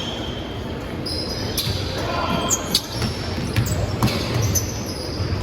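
Basketball game sounds in a gym: a ball bouncing repeatedly on the court, several sharp squeaks and smacks partway through, and players' voices in the background.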